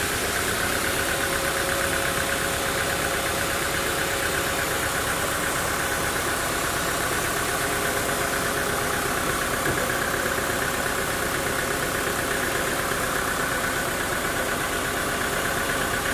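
Sawmill machinery running steadily: an engine-driven mill with a constant hum and a steady high whine that does not change.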